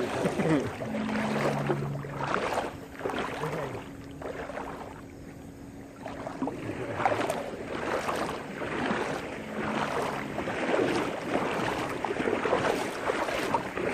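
People wading through floodwater, the water sloshing and swishing around their legs with each stride, at an uneven pace of about one swish a second.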